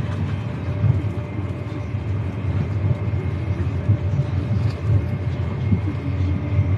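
Steady low rumble of a high-speed passenger train running at speed, heard from inside the carriage, with a faint steady whine above it.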